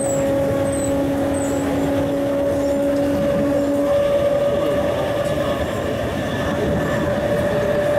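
East Rail Line MLR electric train running, heard from inside the car: a steady rumble of wheels on track with a steady electrical hum from the train's equipment. A lower hum stops about four seconds in, while a higher one carries on, rising slightly.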